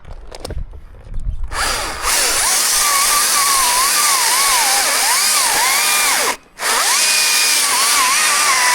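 A few low knocks, then a chainsaw starts cutting about a second and a half in. Its engine pitch sags and recovers again and again as the chain bites into the wood. The sound breaks off for an instant near six seconds and comes straight back.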